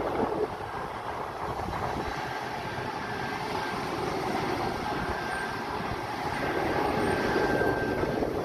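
Boeing 767-300F jet engines running, heard from a distance as a steady rumble with a faint high whine.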